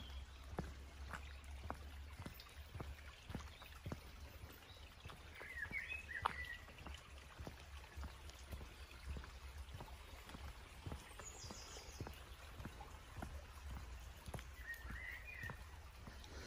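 A stream running, with footsteps on the path at about two or three a second. A small bird chirps briefly about six seconds in and again near the end.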